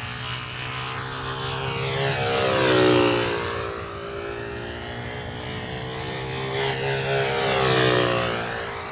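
Small engine of a control-line model airplane running flat out as the plane circles on its lines, the note swelling and its pitch dropping twice as it sweeps past, about five seconds apart.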